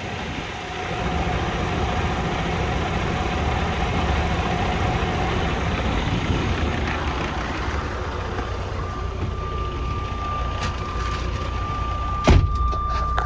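Diesel engine of a 2019 Freightliner Cascadia semi truck idling steadily. A steady high tone comes in after about nine seconds, and there is a single sharp knock near the end.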